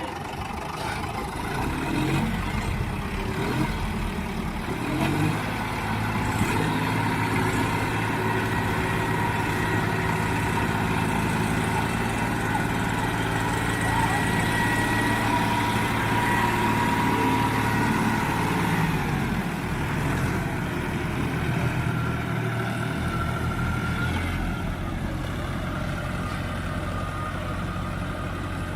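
Tractor diesel engine running steadily, its note changing about twenty seconds in.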